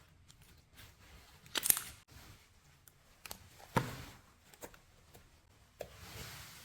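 Slime being handled and pressed, giving a few separate sharp crackles and sticky pops, the loudest about one and a half seconds in and again near four seconds, with a softer squishing swell near the end.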